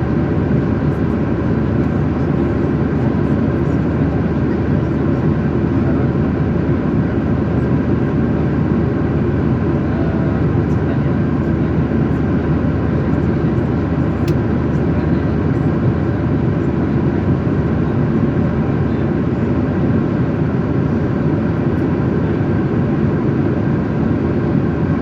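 Steady jet engine and airflow rumble of an airliner heard inside the passenger cabin.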